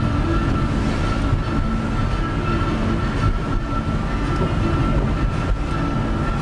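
Steady mechanical rumble of a running vehicle, with a steady high whine through it.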